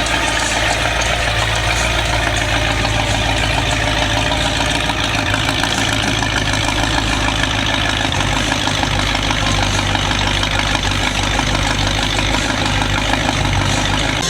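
Vehicle engine idling steadily, a loud, even low rumble with no change in speed.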